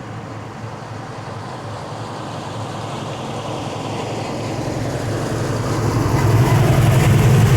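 A car engine running steadily and growing gradually louder as the car approaches.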